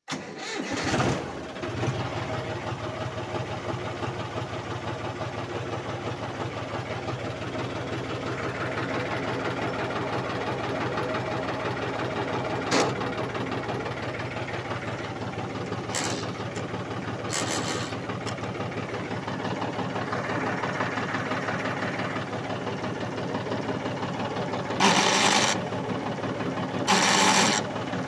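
John Deere 5310 tractor's three-cylinder diesel engine running steadily, with a few short louder bursts, the loudest two near the end. The tractor is being checked for gearbox noise.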